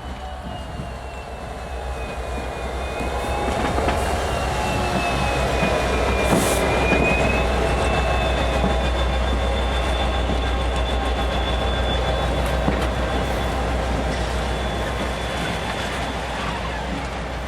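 Freight train rolling past, growing louder over the first few seconds and then slowly easing off, with the wheels squealing in a high wavering tone through the first half.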